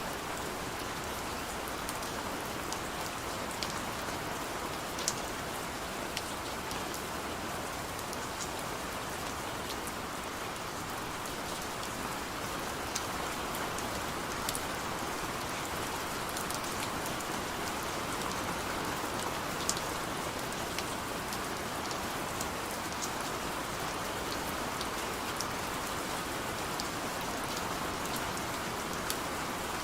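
Heavy rain falling steadily in a dense, even hiss, with many sharp individual drop ticks scattered through it.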